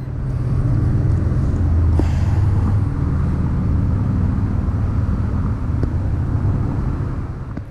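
A loud, low, steady rumble that builds over the first second, holds for about six seconds and fades away near the end.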